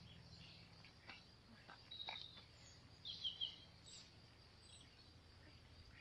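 Quiet garden background with a few faint, short bird chirps in the middle, and a few soft rustles of leaves as radishes are handled.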